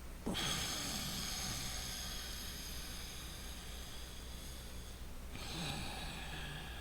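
Loud breathing through the nose, audible airflow. A long breath starts about a third of a second in and fades out around five seconds, then a second breath begins.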